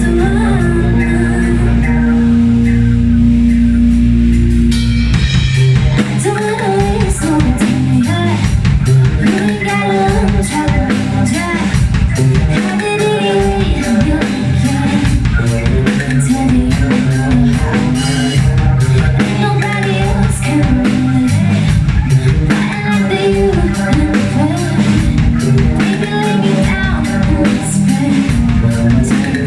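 Live rock band playing a cover song. A held chord rings for the first few seconds, then drums and the full band come in about five seconds in, with a singer over guitar.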